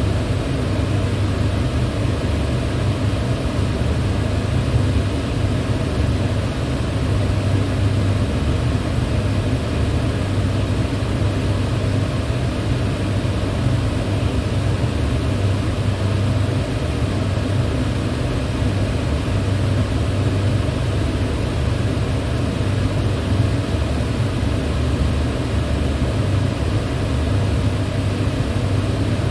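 Electric fan running steadily: an even rush of moving air with a low hum underneath, unchanging throughout.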